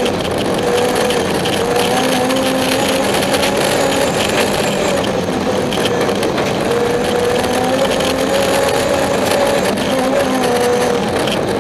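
BMW 325i rally car's straight-six engine running hard, heard from inside the cabin. Its pitch rises and dips as the car is driven through snowy bends, over a steady rush of road noise.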